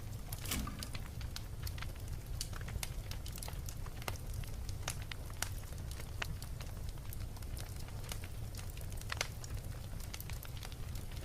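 Wood fire crackling in a fireplace: irregular sharp pops and snaps over a steady low rumble, with a louder pop about half a second in and another near the end.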